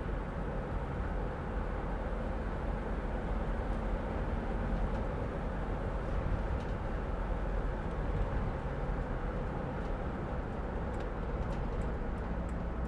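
Steady road and engine noise inside the cab of a 2006 Mercedes Sprinter van being driven, with a few faint ticks near the end.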